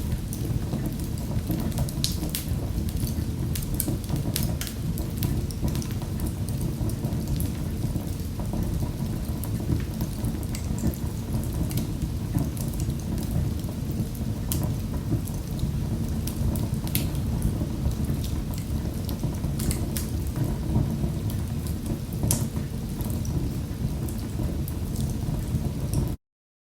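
Wood fire crackling in a fireplace: frequent sharp pops and snaps over a steady low rumble of burning. It cuts off to silence near the end.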